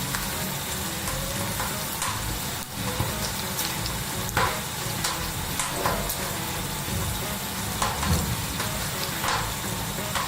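Eggs frying in hot oil in a frying pan: a steady sizzle with scattered pops and crackles.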